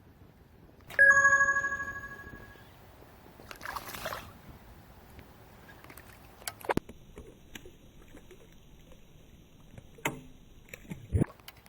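A sudden bell-like ding about a second in, several clear tones ringing out and fading over a second or so. A short rush of noise follows, then a few scattered clicks and knocks.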